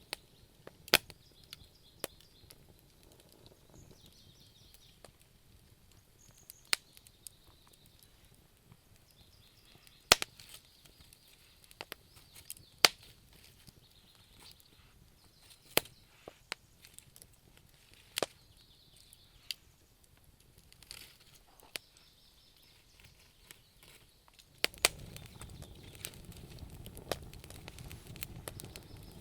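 Wood fire crackling, with sharp pops at irregular intervals of a second or two. A low rushing noise comes in near the end.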